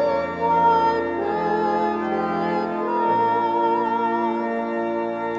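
Voices singing with pipe organ accompaniment, a hymn reaching its end: a new low bass note enters about halfway through and the final chord is held.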